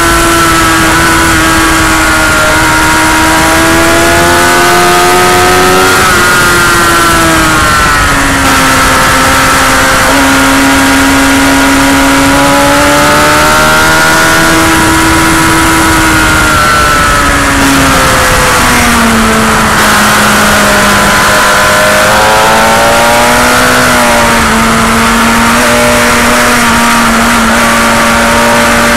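Motorcycle engine running hard on a racetrack, its pitch climbing and falling repeatedly as it accelerates and slows, with a sudden break in the note about six seconds in, under a constant loud rush of wind noise.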